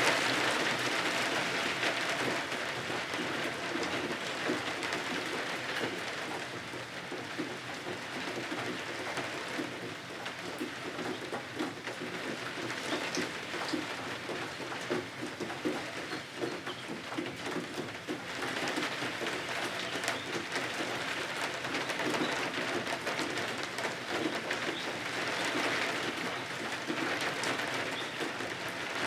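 Steady rain falling, swelling louder in gusts near the start and twice more later on.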